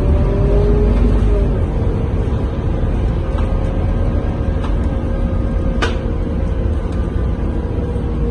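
Scania K230UB diesel bus heard from inside while under way: a low engine and road rumble with a steady drivetrain whine that shifts in pitch near the start, and a single sharp click about six seconds in.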